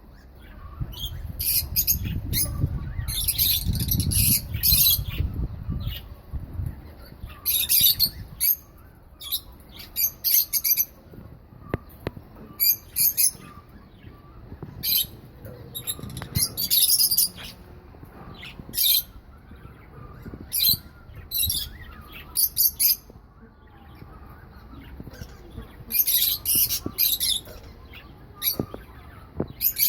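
Pet lovebirds and budgerigars calling: repeated clusters of sharp, high-pitched squawks and chirps with short pauses between them. A low rumble runs under the calls for the first few seconds.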